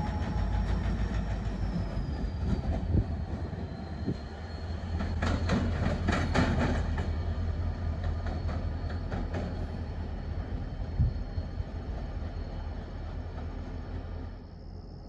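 Diesel freight locomotive and freight cars moving slowly: a steady low engine rumble, with a faint high wheel squeal that falls slightly in pitch early on. A cluster of wheel clicks over rail joints comes about five to seven seconds in.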